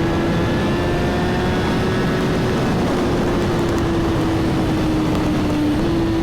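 Suzuki GSX-R1000 inline-four engine running at a steady cruise, its pitch holding almost level with a small step up near the end, under a heavy rush of wind noise.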